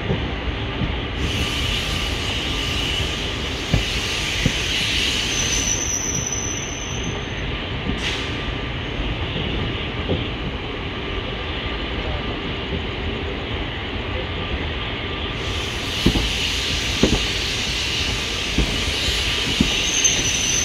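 ICF passenger coach running on the track with a steady rumble and hiss of wheels on rail, broken by a few sharp clicks as the wheels cross rail joints. A thin high wheel squeal sounds briefly about six seconds in and again near the end.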